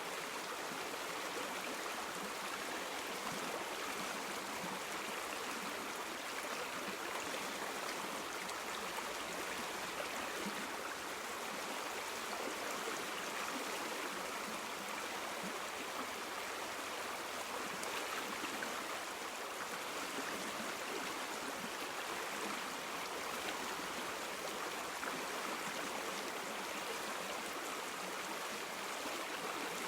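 River water flowing and babbling steadily in a continuous rush.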